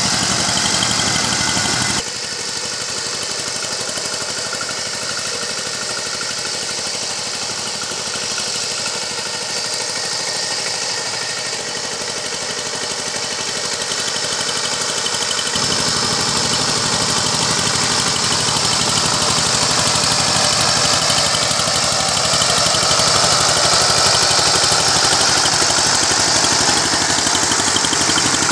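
Power tiller engine running steadily as the machine works the field. About two seconds in the sound abruptly goes thinner and a little quieter, losing its low rumble, and the fuller engine sound returns about halfway through.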